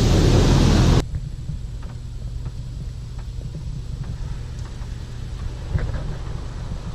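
Touchless car wash spray rushing against the car, heard from inside the cabin, cutting off suddenly about a second in. After it, a steady low hum of the car idling with faint scattered ticks and drips on the body.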